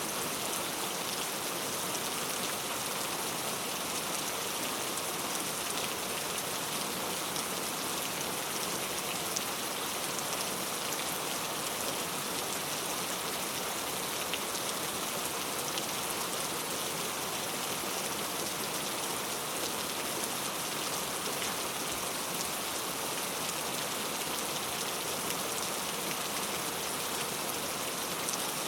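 Steady rain falling, an even hiss with scattered drop patters.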